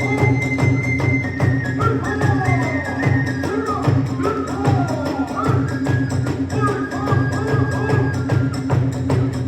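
Kagura hayashi ensemble playing: a bamboo flute holds long high notes over a steady rapid pattern of drums and small hand cymbals.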